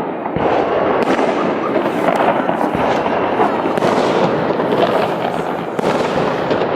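Fireworks salute: many overlapping bangs in quick succession, forming a dense, continuous barrage.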